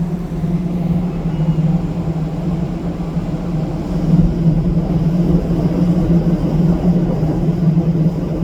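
A ship's engines running under way: a steady low hum with rumble that does not let up.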